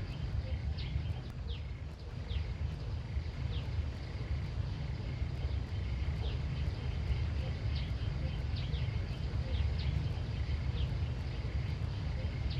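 Rural outdoor ambience: a steady low rumble under faint steady high-pitched insect-like tones, with short high falling chirps repeating every second or so.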